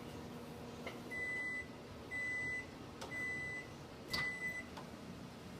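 Microwave oven sounding its end-of-cycle alert: four steady, high-pitched beeps of about half a second each, one a second. The cooking time is up.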